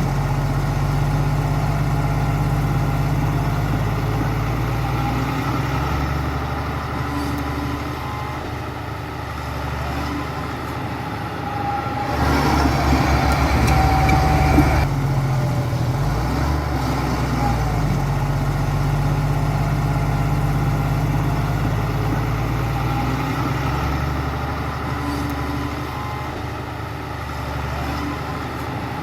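Bulldozer's heavy diesel engine running, its note shifting up and down with load. About halfway through comes a louder stretch of a few seconds with a rapid low pulsing.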